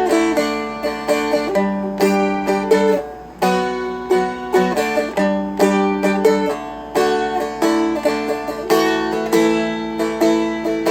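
Seagull Merlin M4, a four-string dulcimer-style fretted instrument, being picked and strummed through a melodic passage. Melody notes ring over a steady low drone string, several notes a second.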